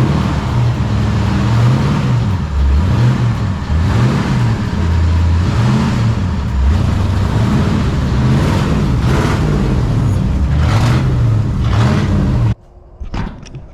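1966 Ford F100's V8 engine running and being revved up and down over and over, then cutting off suddenly near the end.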